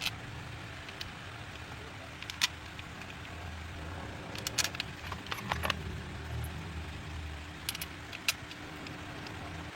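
A low rumble with scattered light metallic clicks and clinks.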